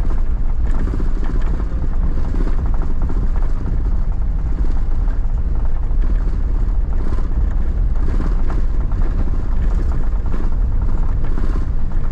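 Steady road noise inside a moving car's cabin: a low rumble of engine and tyres on the road.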